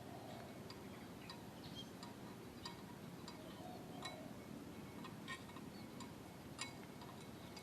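Faint, irregular metallic clinks, about a dozen over several seconds, each with a short ring, over a low background murmur; no engine is running.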